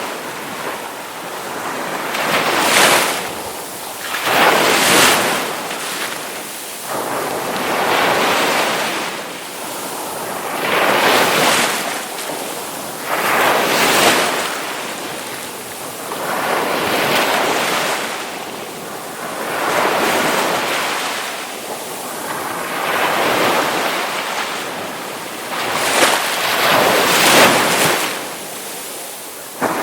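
Ocean surf washing ashore, a wave breaking and rushing in about every three seconds, each surge swelling and then falling away.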